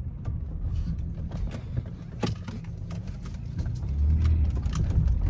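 Car driving, heard from inside the cabin: steady low engine and road rumble that grows louder about four seconds in, with a few light clicks and knocks.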